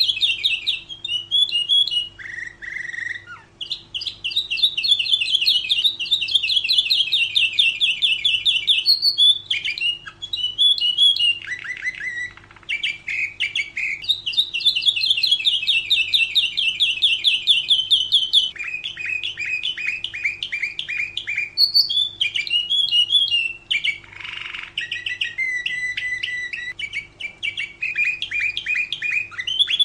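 Domestic canary singing a continuous song of rapid trills and rolls, switching to a new trill every few seconds.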